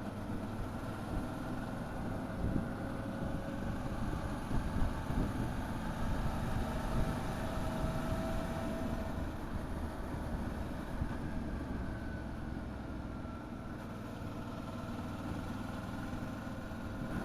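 Motorcycle engine running on the move, its pitch rising and falling gently with speed, over a steady haze of wind and road noise.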